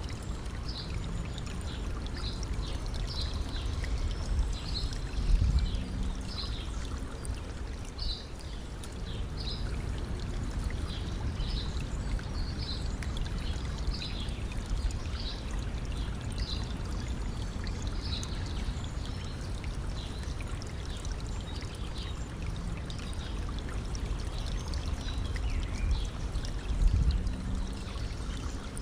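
Stream water running and trickling steadily, with a bird repeating short high calls about once a second through the first two-thirds. Two brief low swells stand out, a few seconds in and near the end.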